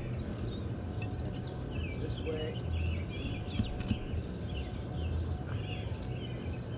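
Small birds chirping repeatedly over a low, uneven rumble, with a couple of faint clicks about halfway through.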